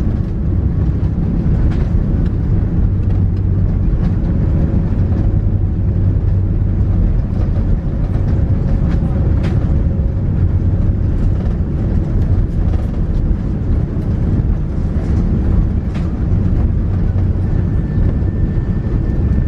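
Steady low rumble inside the cabin of an Airbus A330-300 airliner: engine and airflow noise with a few faint clicks.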